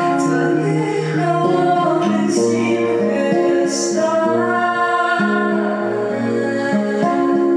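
A woman singing a song live, with acoustic guitar accompaniment.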